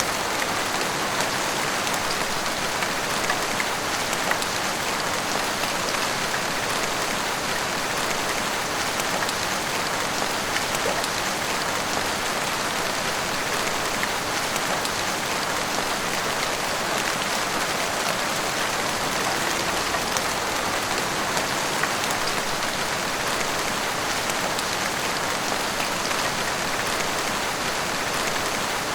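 Heavy rain pouring steadily, with many small drops pattering on hard surfaces.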